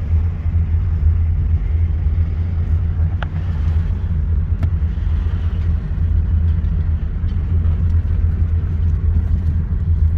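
Wind buffeting the microphone outdoors: a loud, steady, wavering low rumble, with a couple of faint clicks partway through.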